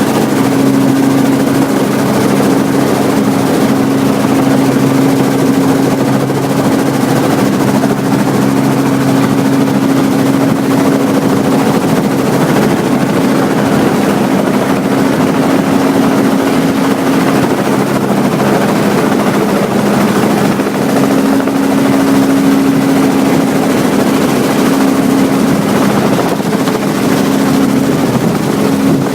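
Helicopter running steadily: a loud, even drone of engine and rotor with a steady low hum.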